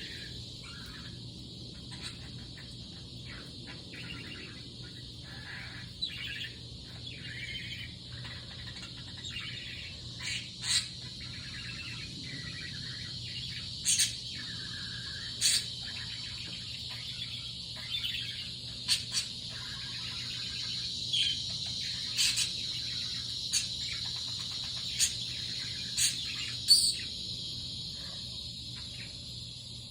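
Budgie warbling and chattering without pause, broken by many short, sharp high chirps.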